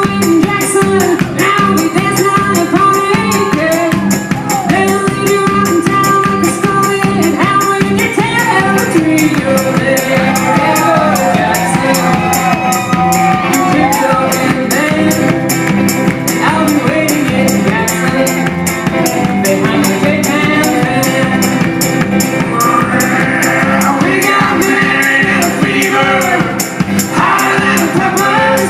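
Live band performance: a voice singing over strummed and bowed instruments, with a steady, driving percussion beat.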